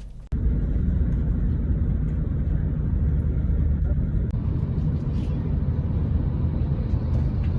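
Steady low rumble of a moving vehicle, starting abruptly at a cut just after the start.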